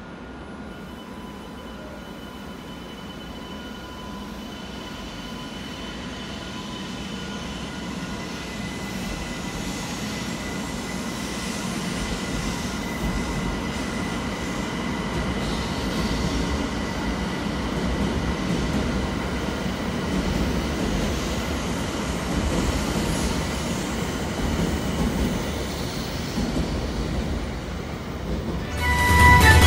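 Sanyo Shinkansen train running, its rushing rail noise growing steadily louder over about twenty seconds, with faint steady whining tones early on. Music cuts in loudly about a second before the end.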